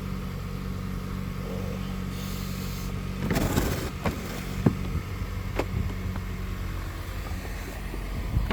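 A car engine idling steadily, with a short scraping rustle about three seconds in and a few light knocks after it.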